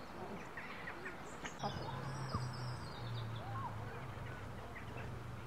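Several wild birds chirping and whistling, many short calls overlapping. A low steady hum comes in about one and a half seconds in.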